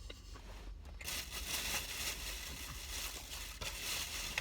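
Paper crinkling and rustling, starting about a second in, with a sharp click near the end.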